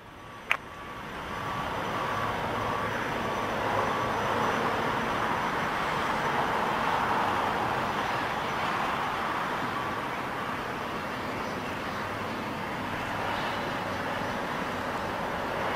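Jet airliner's engines passing close by: a steady rushing roar that swells over the first couple of seconds and then holds, with a single click about half a second in.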